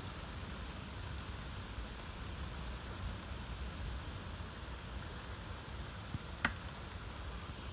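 Steady rain falling during a thunderstorm, an even hiss, with one sharp tick about six and a half seconds in.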